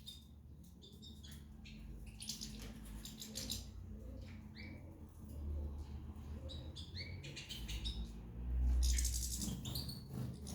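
Small caged birds chirping in short calls, with wing flutters and rustling among them. A low rumbling thud near the end is the loudest moment.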